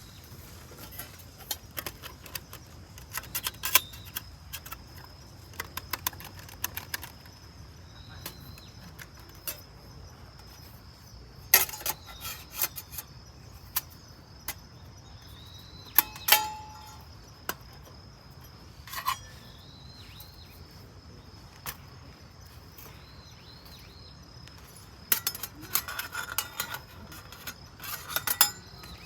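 Irregular light clinks and clicks of thin metal parts being handled, in clusters with a few louder knocks, over a steady high-pitched insect-like whine.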